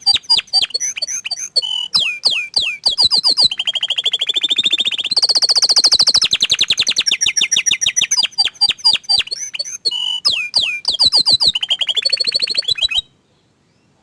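Domestic canary (orange frost colour variety) singing a long, fast song of rapid repeated trills and rolls, stopping suddenly about a second before the end.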